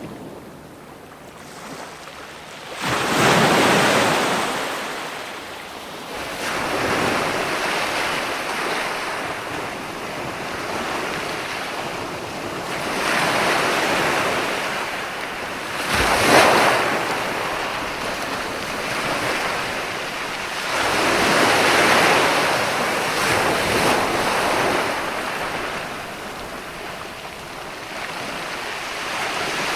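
Ocean waves breaking in surges of rushing surf, each swelling and fading every few seconds, with one sharper crash about halfway through.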